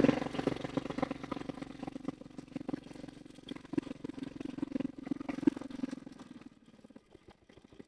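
Small motorbike engine running at a steady low speed, with some light clatter, dying away about six and a half seconds in.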